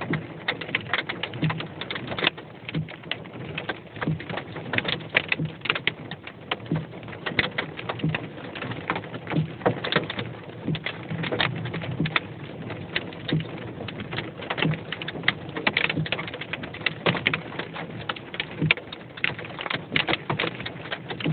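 Marble-size hailstones hitting a car's roof and windows, heard from inside the car: a dense, irregular patter of sharp hits.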